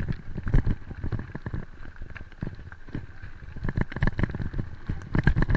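A bicycle riding over rough ground: irregular knocks and rattles from the bumps, with no steady rhythm.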